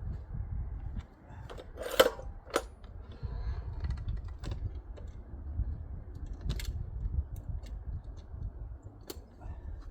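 Scattered clinks and knocks of metal pot-stand parts being handled and fitted, the loudest about two seconds in, with a low rumble of handling underneath.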